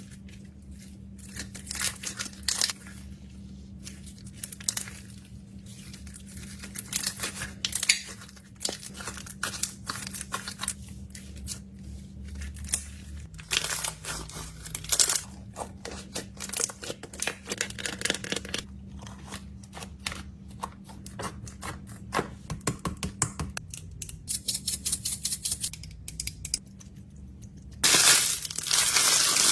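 Plastic snack packaging crinkling and tearing, with many small clicks and taps as items are handled and packed. There are runs of quick taps in the second half, and a louder, denser rustle begins shortly before the end.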